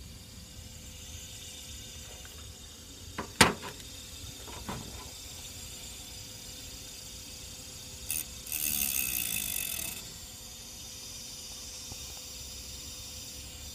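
Electric fan that is plugged in giving off a steady high-pitched whine with a lower hum. The noise comes from the fan's electrics and is there even when the blades are not turning; its cause is unknown to the owner. A sharp click comes a few seconds in, and a rushing hiss lasts about two seconds midway.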